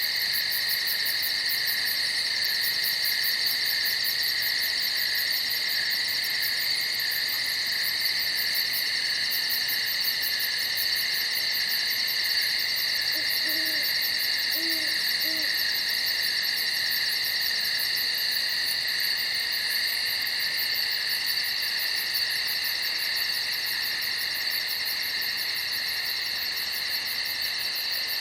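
Night chorus of crickets: a steady shrill ringing with a fast pulsing trill above it. About halfway through, three short low hoots sound over the chorus.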